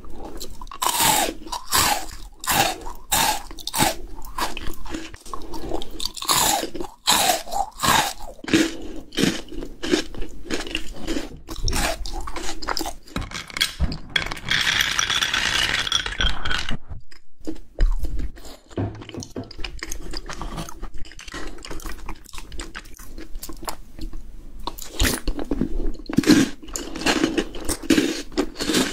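Close-miked crunching and chewing of Maltesers malted-milk chocolate balls, with many sharp biting cracks. About halfway through there are a couple of seconds of steady rattling as more balls are poured from a glass.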